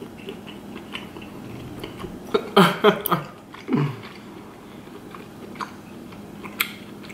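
Close-miked chewing of lobster tail meat, with soft wet mouth clicks. There are a few short hums in the throat about two and a half to four seconds in.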